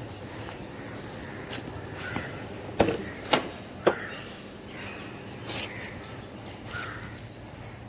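Three sharp knocks about half a second apart near the middle, over a low steady hum.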